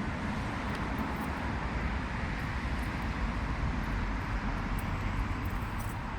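Steady low rumble of running vehicles, with no breaks or sudden events.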